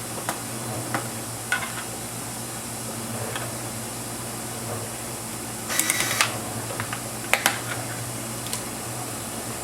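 Small clicks and taps of hands and tools working on a laptop's plastic case and screws, with a short burst of rapid clicking about six seconds in and two sharp clicks just after. A steady low hum lies underneath.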